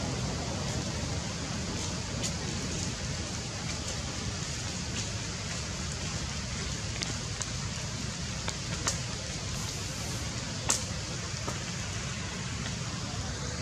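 Light rain falling steadily, with a few sharper drip clicks scattered through it.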